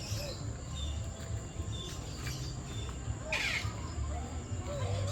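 Birds calling in an aviary: scattered short chirps and a louder call a little over three seconds in, over a steady low rumble.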